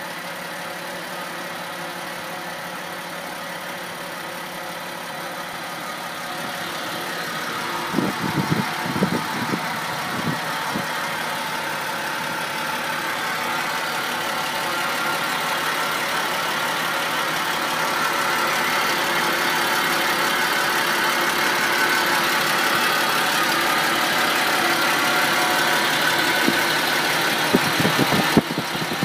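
Rebuilt straight-six engine of a 1996 Jaguar X300 4.0 Sovereign idling steadily and growing gradually louder, with a few low thumps about eight to eleven seconds in.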